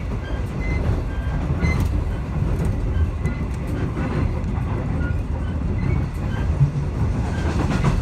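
Interior of a V/Line passenger train carriage running along the track: a loud, steady low rumble of wheels and running gear with rattling and brief high squeaks scattered through it. It is very noisy.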